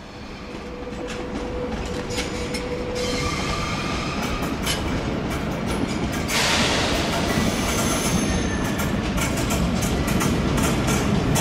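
SBB RBDe 560 regional train running over the points of a station track field, its wheels squealing in thin steady tones and clicking over the switches and rail joints. The sound grows louder throughout as the train approaches, swelling sharply about six seconds in.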